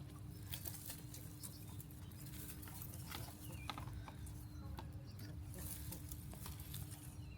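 Faint, scattered farm animal calls and small clicks over a steady low hum.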